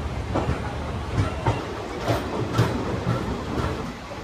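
Passenger train running, its wheels clacking irregularly over rail joints above a steady low rumble, heard from an open carriage doorway.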